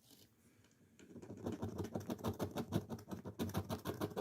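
Scratch-off lottery ticket being scratched, a fast run of short rasping strokes that starts about a second in.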